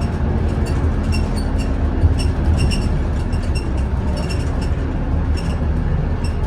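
Scania N230UD Omnicity double-decker bus running on the road, heard from inside: a steady low engine and road rumble with frequent light rattles and clicks from the bus interior.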